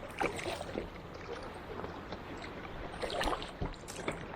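Kayak paddle strokes in the sea: the blades dipping in with short splashes and water running off them, a few strokes in succession.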